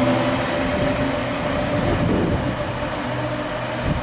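Vivarail Class 230 D-Train, a diesel-electric multiple unit rebuilt from London Underground D Stock, pulling away along the track. Its engine hum and running noise slowly fade as it recedes.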